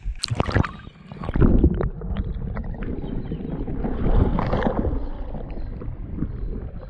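Water splashing and sloshing as a hooked Murray cod is brought in through fast floodwater, with a few sharp splashes in the first two seconds and steady churning after.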